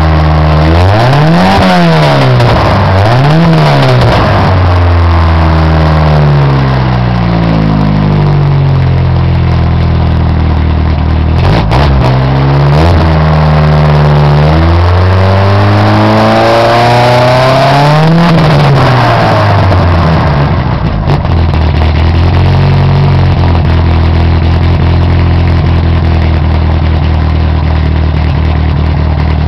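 1986 Dodge 600's four-cylinder engine breathing through a new Borla Pro XS muffler: two quick revs, then longer, slower revs up and back down, before it settles to a steady idle about twenty seconds in, with one small blip shortly after.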